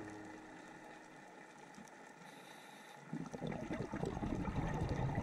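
Underwater breathing sounds from a scuba diver's regulator: starting about three seconds in, an irregular rumbling burble of exhaust bubbles.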